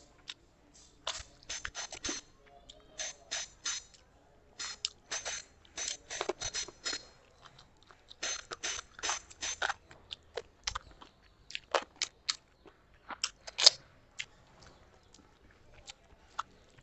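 Close-up chewing and mouth smacking of a person eating rice and curry with her hand, picked up by a clip-on microphone. It comes in bursts of quick clicks with short pauses, and there is one sharper snap about three-quarters of the way through.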